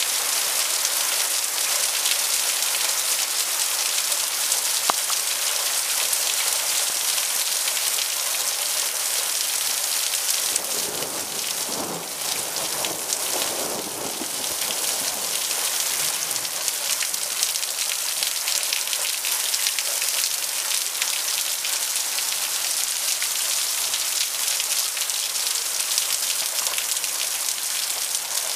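Heavy rain falling steadily in a thunderstorm, a dense even hiss. About halfway through a low rumble of thunder swells and fades.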